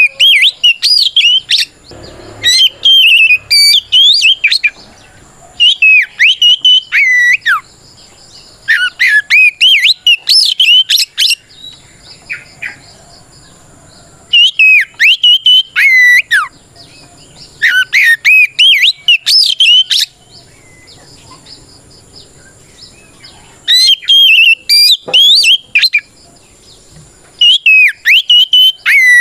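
Oriental magpie-robin (kacer) singing loud, rapid whistled phrases in bouts of about two seconds, separated by short pauses. This is a full challenging song, a male calling out a rival.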